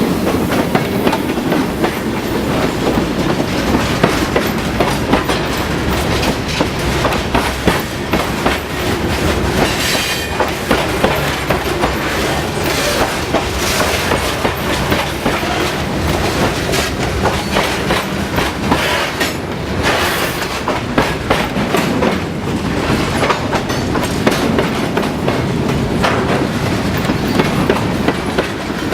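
Freight cars rolling past, their wheels clacking steadily over the rail joints.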